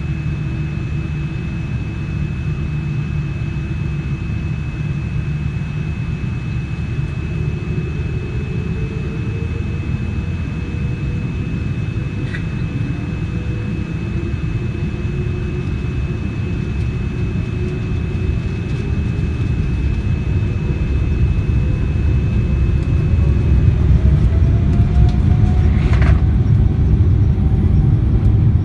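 Boeing 787-9 cabin noise from a passenger seat: a steady low rumble from the running engines, with a faint whine slowly rising in pitch and the sound growing louder over the second half. A brief sharp sound comes near the end.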